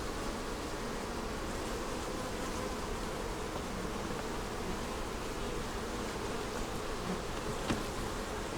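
Honey bees buzzing around an open hive, a steady, even hum.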